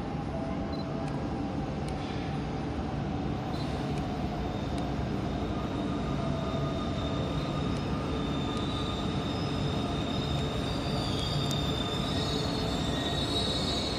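E4 series double-deck Shinkansen running into the station platform, a steady rumble that slowly grows louder as it approaches. A high squeal comes in over the last third as the train slows.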